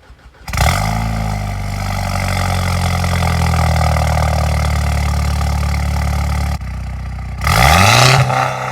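Car engine with the muffler and resonator deleted, starting with a loud flare and settling into a steady, loud idle. The idle steps down about six and a half seconds in, then the engine is revved once near the end.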